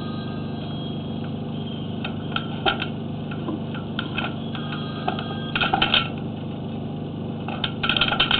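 Steady low hum with short bursts of clattering clicks, about two seconds in, near the middle and near the end, as a sewer inspection camera's push cable is fed into the drain line.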